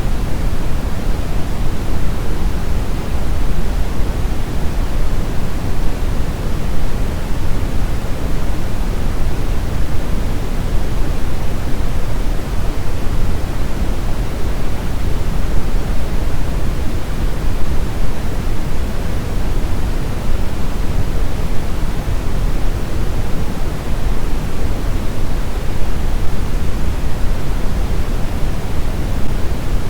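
Brown noise: a steady, even hiss and rumble weighted heavily toward the low end, with no changes or events.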